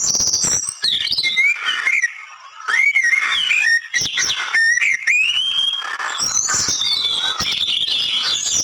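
Birds calling: a varied run of whistled notes that slide up and down, mixed with chirps and a couple of quick rattling trills.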